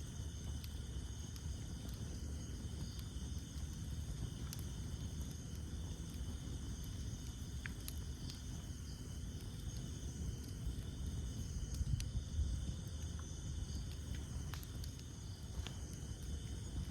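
Campfire burning with a low steady rumble of flame and sparse sharp crackles and pops from the wood, a little louder about twelve seconds in. A steady high insect chorus sits behind it.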